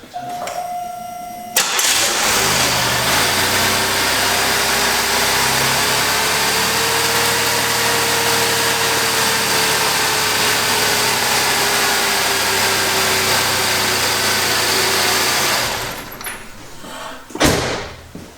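GM 3800 V6 cranked by the starter for about a second and a half, catching and then idling steadily for about fourteen seconds before being shut off: a test start after the DIS ignition system work to cure a misfire. A single knock follows shortly after the engine stops.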